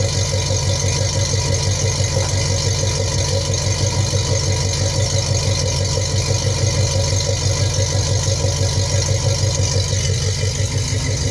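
Buick 350 V8 idling steadily through long-tube headers, a two-and-a-half-inch exhaust and old Flowmaster Super 10 mufflers, with a deep, even throb. The header collectors are fitted without gaskets and not yet tightened, so the exhaust leaks there.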